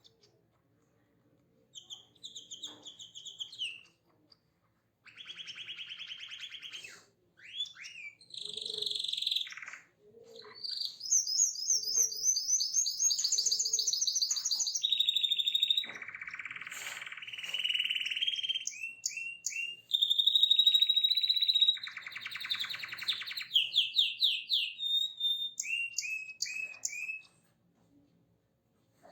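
A songbird singing in a varied series of phrases: short chirps, fast rolling trills and runs of quick down-sweeping notes, broken by brief pauses.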